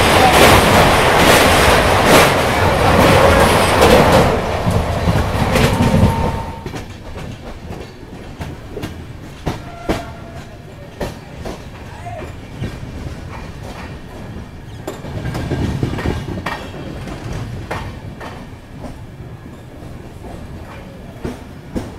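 Express train crossing a steel truss bridge, heard from the open coach door as a loud rattling rumble. About six seconds in the noise drops sharply, and the train rolls slowly along a station platform with scattered wheel clicks and knocks as it slows for a halt.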